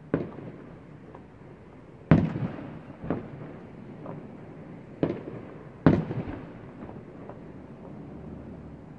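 Fireworks shells bursting in the distance: about five booms, each trailing off in a rolling echo. The loudest comes about two seconds in and another strong one about six seconds in.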